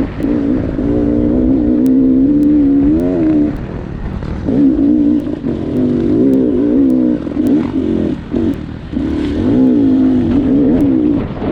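Dirt bike engine revving up and down, its pitch rising and falling constantly as the throttle is worked, easing off briefly about four seconds in and again about eight seconds in.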